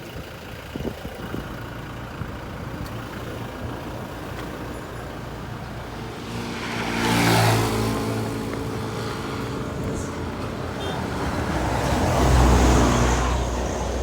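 Road traffic: a steady rumble with two motor vehicles passing close by, one about seven seconds in and another about twelve seconds in, each swelling up and fading away.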